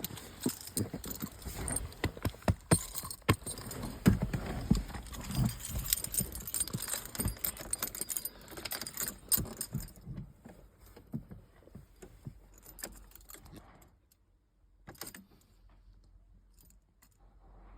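Car keys jangling, with a run of small clicks and knocks for about the first ten seconds, then thinning to a few faint clicks and near quiet.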